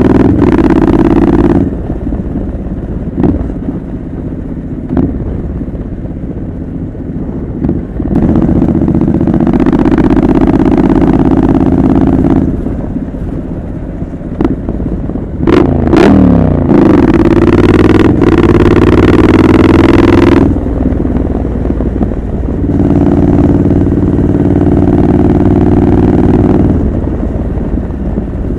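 Triumph Scrambler 900 parallel-twin through a homemade exhaust while riding: several loud stretches under throttle with quieter off-throttle stretches between them. A quick swing in revs comes a little past the middle.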